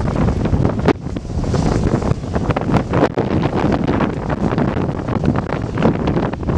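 Strong gusty wind buffeting the microphone: a heavy, uneven rumble with frequent sudden gust blasts.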